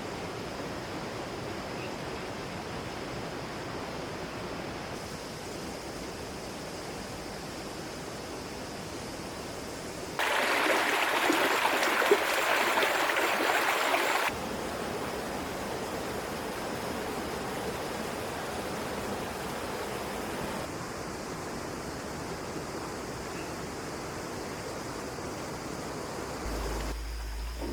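Steady rushing noise of flowing water, with a louder, brighter stretch from about ten to fourteen seconds in; the sound changes abruptly several times.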